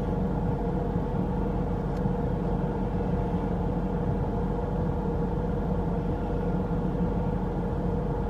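Steady engine and road noise inside a moving vehicle, with a faint constant hum.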